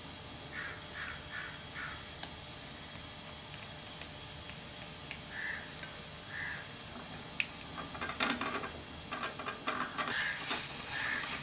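Onions, tomatoes and ginger-garlic paste sizzling softly in oil in a kadhai, with a spatula stirring and scraping through them, louder and busier from about eight seconds in. Short harsh bird calls, crow-like caws, sound in the background: four in quick succession near the start, then a few more later.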